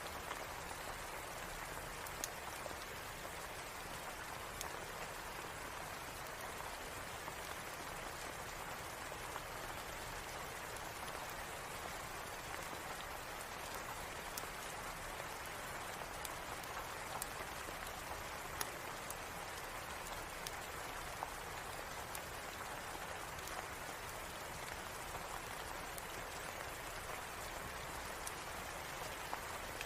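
Steady rain falling, an even patter, with a few sharp ticks now and then.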